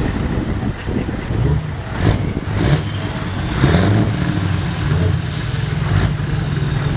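Scania V8 580 truck engine running, its pitch shifting up and down, with several short hisses of compressed air, the brightest one about five seconds in.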